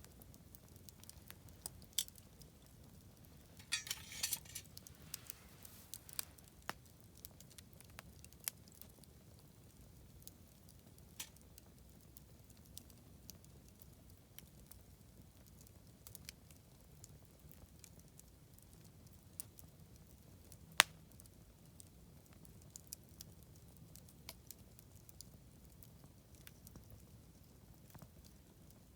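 Wood campfire crackling: scattered sharp pops and snaps over a faint low rumble, with a quick flurry of crackles about four seconds in and one loud pop about two-thirds of the way through.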